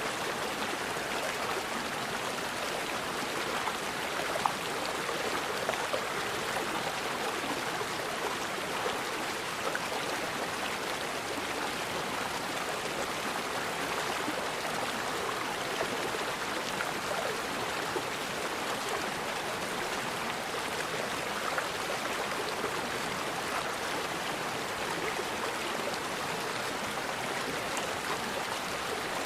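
Forest river flowing steadily, an even rush of water with small gurgles and a couple of slightly louder splashes.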